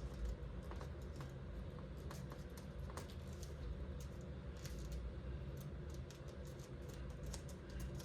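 Origami paper being folded and creased by hand: scattered small crinkles and taps at an uneven pace, over a steady low hum.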